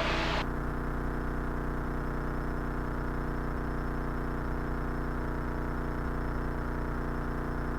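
Cessna 172's piston engine and propeller running steadily at climb power: a constant drone with no change in pitch or level.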